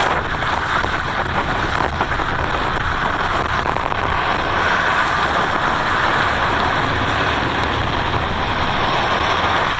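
Skateboard wheels rolling over pavement: a steady rolling rumble and hiss with a few faint clicks.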